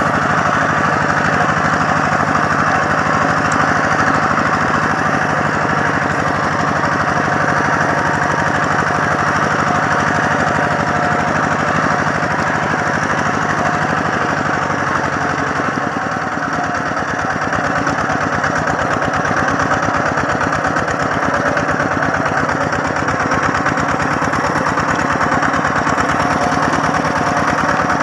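Tractor engine running steadily, with a rapid, even chugging beat.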